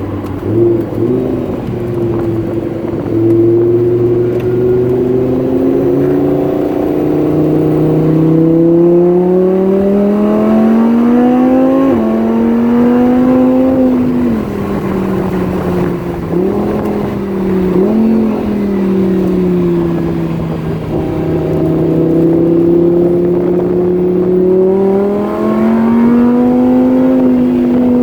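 Lamborghini Huracán's V10 engine running hard under acceleration, its pitch climbing and then dropping sharply about twelve seconds in as it shifts up. It then eases off with two short throttle blips, holds a steady note for a few seconds, and rises again near the end.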